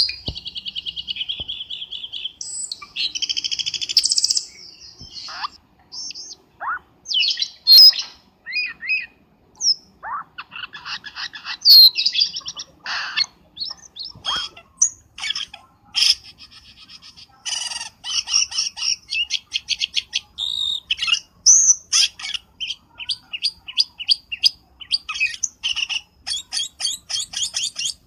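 Cucak keling singing a varied, chattering song of rapid repeated chirps, buzzy trills and sharp rising and falling whistles, played as a bird-trapping lure call.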